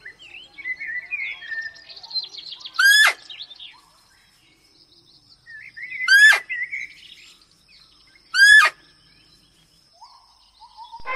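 Wild birds chirping and twittering, with three loud, quick calls that each sweep steeply down in pitch, a few seconds apart.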